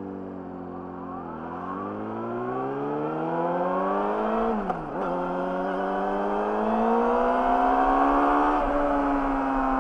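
Yamaha YZF-R6's inline-four engine through an Akrapovic slip-on exhaust, pulling away and accelerating hard with steadily climbing revs. About halfway through the revs drop sharply for an upshift, then climb again before levelling off near the end.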